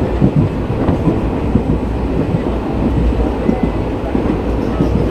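Passenger express coach running along the track: a steady low rumble of wheels on rail with irregular clattering knocks throughout.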